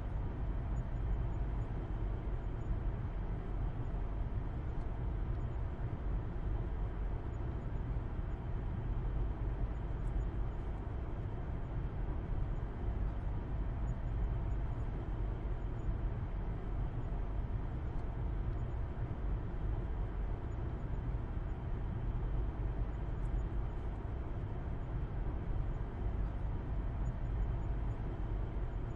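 Steady low rumble of a car driving at a constant speed, engine and road noise heard from inside the cabin.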